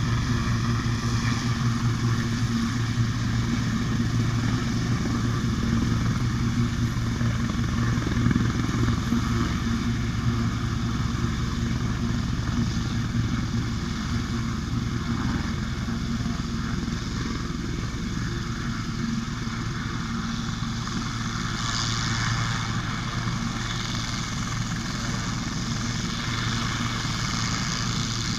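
Helicopter's engine and rotor running steadily, a constant low drone with a higher hiss over it.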